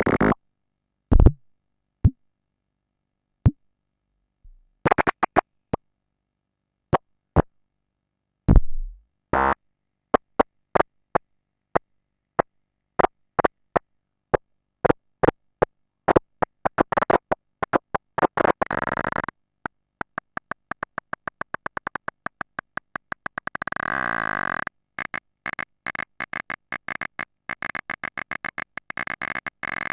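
Frog semi-modular synthesizer playing dry: scattered short clicks and blips with gaps between them, turning about ten seconds in into an even train of pulses that quickens. From about twenty seconds on the pulses run together into a continuous pulsing tone with a few held pitches.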